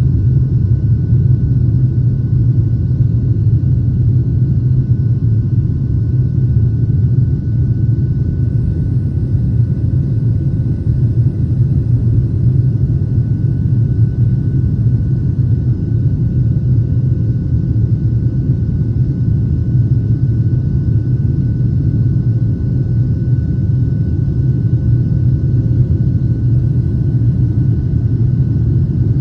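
Steady, loud low rumble of an airliner cabin, the engines and airflow heard from inside the plane, with a faint steady whine above it.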